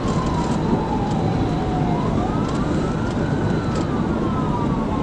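Police cruiser siren on a slow wail, falling in pitch, rising again about two seconds in and starting to fall near the end, over steady road and engine noise from the moving car.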